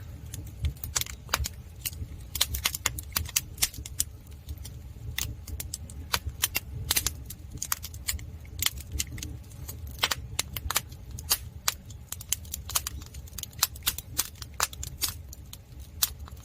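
Split firewood burning in a traditional Korean agungi firebox, crackling and popping in irregular sharp snaps, several a second, over a low steady rumble.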